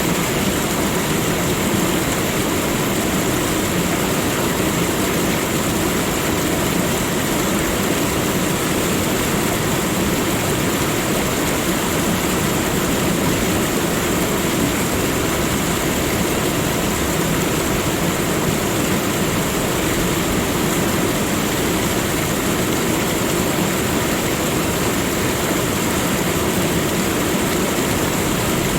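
Steady, unchanging rushing noise of a nature soundscape, with a thin high hiss held throughout.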